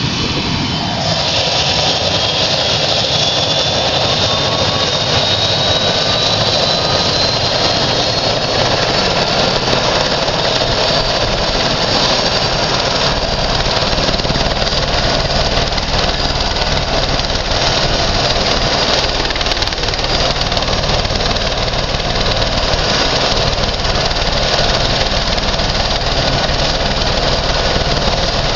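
Helicopter engine and rotors running steadily, with a high whine that rises slowly in pitch over the first ten seconds or so.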